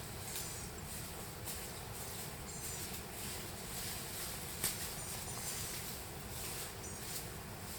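Quiet woodland ambience: a steady low hiss with scattered faint, high, short chirps or squeaks and one sharp tick a little past halfway.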